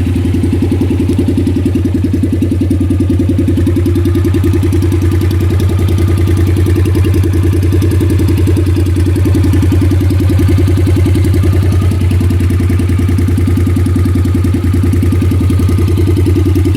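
2014 Honda CTX700N's 670 cc parallel-twin engine idling steadily and loud through a straight pipe, with the catalytic converter removed.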